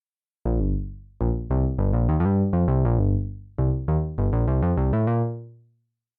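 GForce Minimonsta 2, a software emulation of the Minimoog synthesizer, playing a short phrase of low, bright bass-synth notes, each with a sharp attack. The phrase comes in two runs with a brief pause between them and ends on a held low note that fades out.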